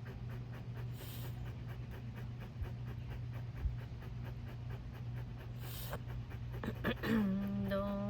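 A dog panting fast and steadily, several pants a second, over a low steady hum. About seven seconds in, a voice starts singing a held note.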